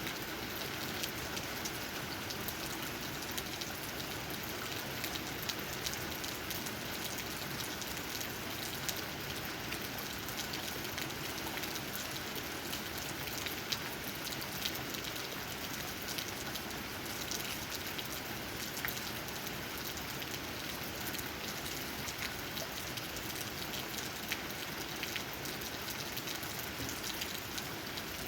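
Steady rain falling, with many separate drops ticking as they tap on leaves.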